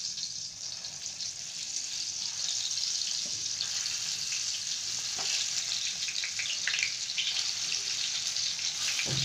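Masala-stuffed brinjals sizzling in hot oil in a frying pan as more are added: a steady hiss that slowly grows louder, with a few faint crackles.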